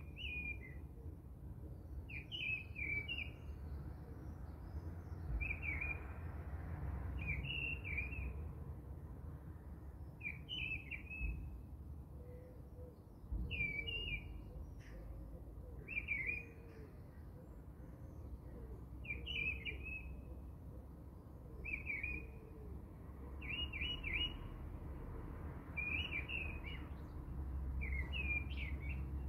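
A small bird chirping, repeating a short twittering phrase every two to three seconds over a low steady hum.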